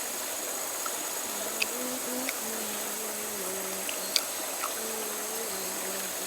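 River water running steadily, with an insect buzzing close by in a low tone that shifts pitch in steps, and a few faint clicks.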